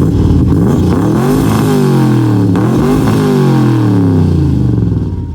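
1966 Corvette's V8 engine being revved twice in quick succession, its pitch climbing and falling each time, then dropping back toward idle near the end.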